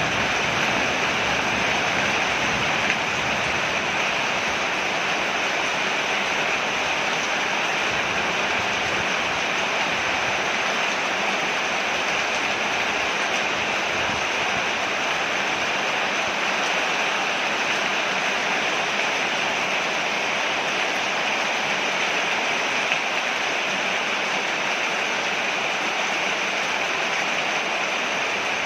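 Steady rain falling on a porch, an even hiss that holds level throughout, with a faint tick about three seconds in and another near the end.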